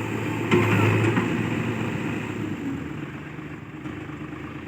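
Heavy diesel engine running steadily. It gets suddenly louder about half a second in, then slowly fades.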